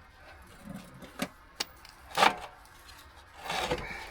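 Scattered clinks and knocks of hand tools and metal parts, with a short scrape near the end, as a tractor battery is unbolted and worked loose.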